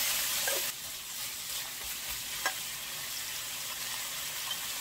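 Butterbur stems sizzling in oil in a frying pan, stirred with a metal spoon at first. The hiss drops a little under a second in, with a couple of light clicks.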